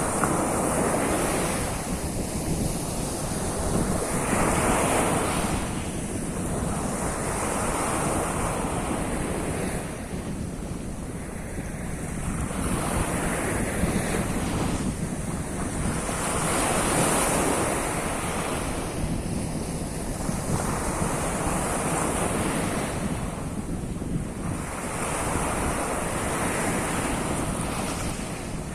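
Sea of Azov waves washing onto the shore, one swell every three to four seconds, each rising and falling away, with wind buffeting the microphone underneath.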